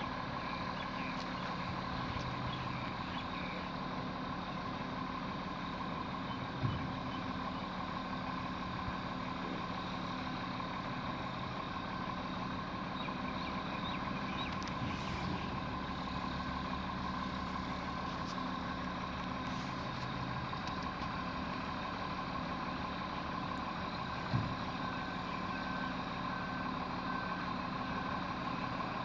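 Garbage truck's engine running steadily with a constant tone over it, and two short knocks. Near the end a reversing beeper starts beeping evenly.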